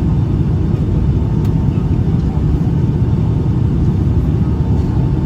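Steady low cabin rumble of a Boeing 757-200 with Pratt & Whitney PW2000 engines, heard from a window seat, with a faint steady whine above it.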